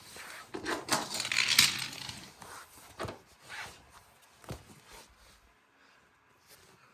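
Small hard objects clattering and rattling: a busy burst of knocks and scrapes about a second in, then a few separate knocks spaced out, fading toward the end.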